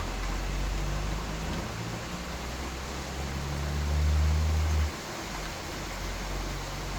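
Steady hiss of rain under a low rumble, which swells to its loudest about four seconds in and cuts off suddenly near five seconds.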